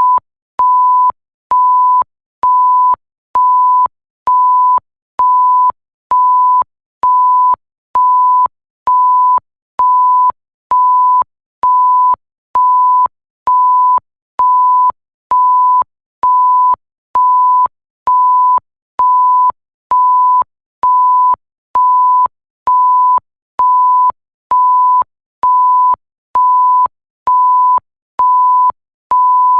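Electronic bleep sound effect: a single steady pure tone sounding in evenly repeated beeps, about one a second, each a little over half a second long, with a faint click as each beep starts and stops.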